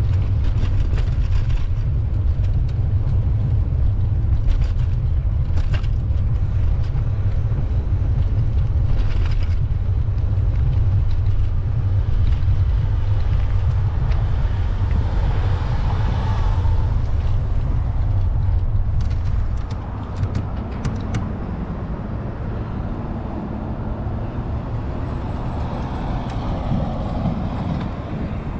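Wind rumbling on the microphone over city street traffic, with a vehicle passing about halfway through.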